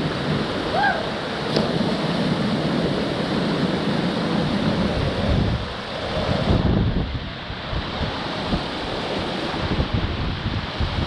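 Loud, steady rushing of river water, with wind buffeting the microphone in uneven low gusts.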